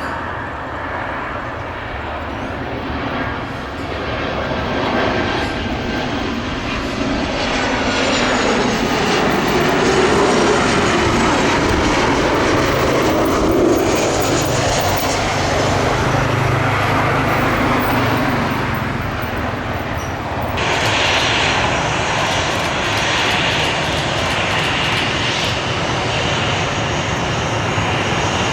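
Jet airliner's engines passing by: a loud, steady rush with a faint whine that glides in pitch, turning brighter and hissier about twenty seconds in.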